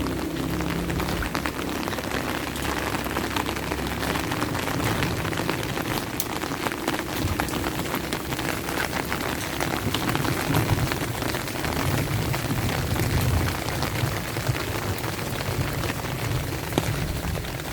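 Steady rain, with many separate drops ticking close to the microphone over an even hiss. A low rumble swells under it about two-thirds of the way through.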